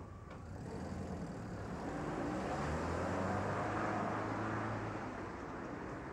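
A sedan's engine running as the car pulls away and speeds up, the engine note rising in pitch. It grows louder for a few seconds, then fades as the car drives off down the road.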